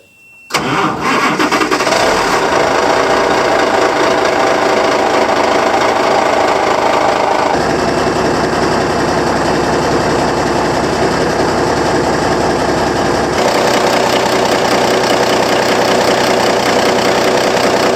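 Diesel engine of a 5-ton army truck running loud and steady. It comes in abruptly about half a second in, and its sound shifts suddenly twice.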